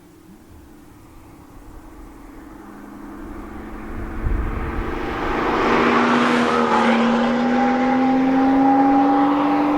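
BMW M2's 3-litre turbocharged inline-six with an M Performance exhaust under acceleration. It grows steadily louder over the first half, then stays loud with its pitch slowly rising, and the pitch drops near the end.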